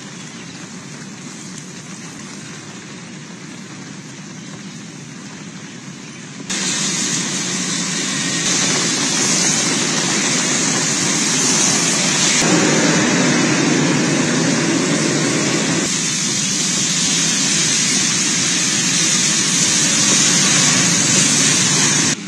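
Rain and wet-road traffic ambience, an even hiss that jumps louder about six seconds in, changes in tone twice after that, and cuts off abruptly near the end.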